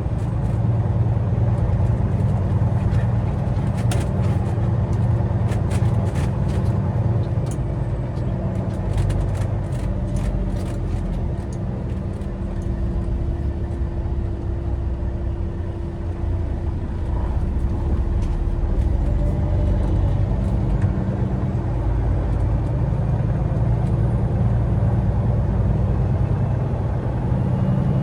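Semi-truck's diesel engine running steadily as the truck gets under way, with a scatter of faint clicks a few seconds in.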